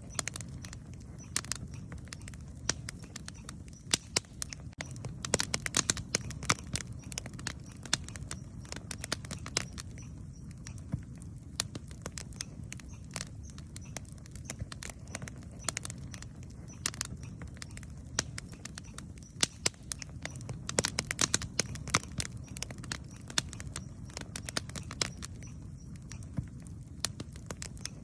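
Wood campfire burning, with frequent sharp crackles and pops, some clustered in quick runs, over a steady low rumble of the flames.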